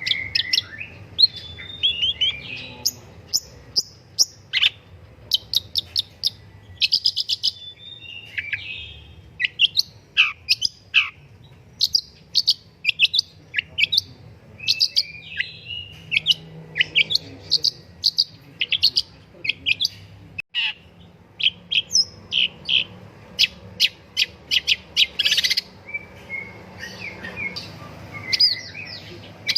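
Long-tailed shrike singing continuously: quick runs of sharp chirps, clicks and scratchy high notes, broken by short pauses.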